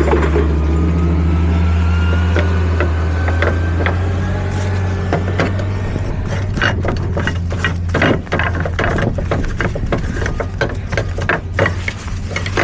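A heavy truck engine running with a steady low hum. In the second half come repeated clicks and knocks of a flatbed strap winch and its strap being loosened.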